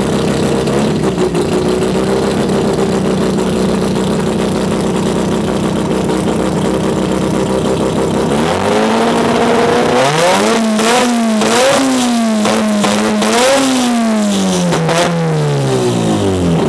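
Mazda RX-4 coupe's modified rotary engine idling steadily. About eight seconds in, the engine climbs, then is revved in several quick blips before it drops back to idle near the end.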